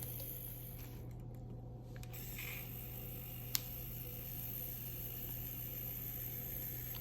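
3D printing pen's filament-feed motor running with a steady low hum as it pushes out filament, with one sharp click about three and a half seconds in.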